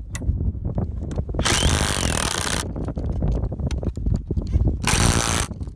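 Power tool running in two bursts, about a second and then half a second long, cutting or shaping wood for door stops.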